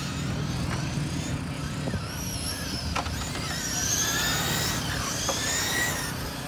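Several radio-controlled race trucks running laps together, their motors whining high and rising and falling in pitch as they speed up and slow down, with a sharp click about three seconds in.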